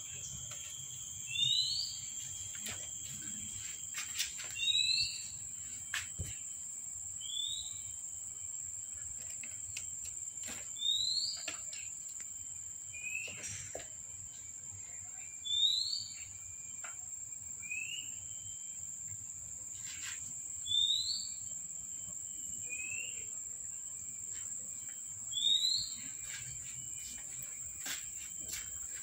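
A bird repeats a short rising whistled call about every two to three seconds over a steady high insect drone, with scattered faint clicks and scrapes.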